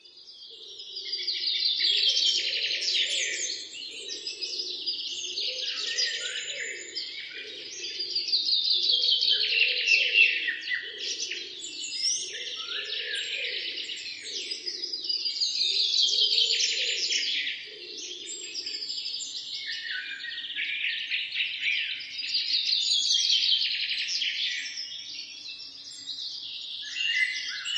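Birds chirping and singing in dense phrases that swell about every seven seconds, over a softer, lower pulsing sound.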